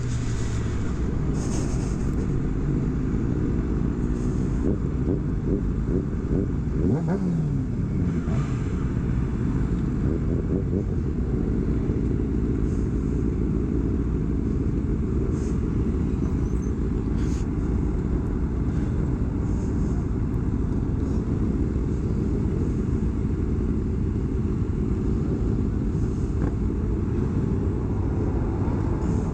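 Motorcycle engine running steadily under a heavy low rumble, with the revs rising and falling briefly about seven seconds in.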